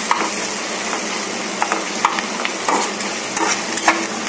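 Chopped onions, curry leaves and whole spices sizzling in hot oil in a kadai, with a spatula scraping and tapping the pan as they are stirred, and scattered sharp crackles from the whole spices, among them a cinnamon stick.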